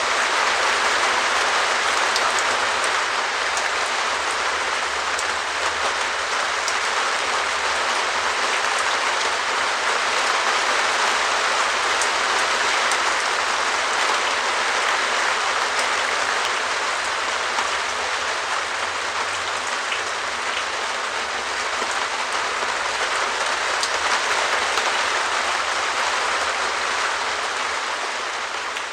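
Steady rain drumming on a perspex (plastic sheet) shed roof, a dense patter of drops with fine individual ticks.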